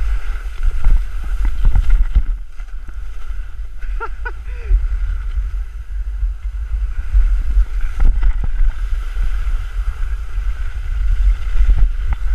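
Glissading down a snow slope: a continuous scraping hiss of snow under the sliding body, with wind buffeting the microphone in a low rumble and scattered bumps.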